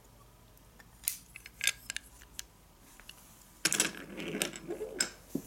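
Light clicks and clattering of small toy vehicles being handled and set down on a hard surface: a few scattered clicks, then a busier clatter about two thirds of the way in.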